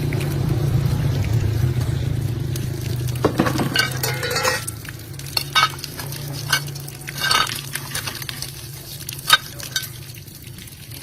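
Metal parts or tools being handled: a series of sharp clinks and short scrapes over a steady low hum that weakens about halfway through.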